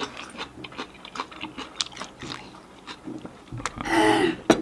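Close-miked chewing of food, with many small wet mouth clicks. A breathy noise comes near the end.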